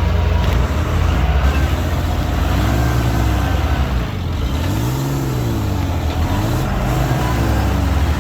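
Heavy diesel engine of earthmoving machinery running steadily and loudly, its pitch rising and falling three times as it revs up under load and eases back off.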